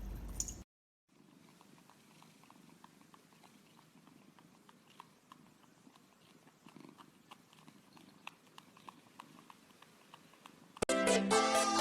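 Domestic cat purring faintly as a low rumble, with small light ticks. Loud electronic music with a beat comes in near the end.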